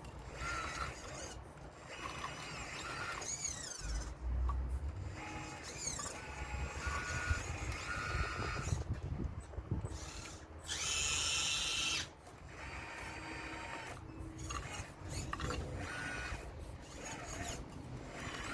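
Hydraulic pump and motors of a radio-controlled Caterpillar excavator model whining in short stretches as it works, the pitch stepping and gliding with each movement. There is a louder, harsher stretch lasting about a second past the middle.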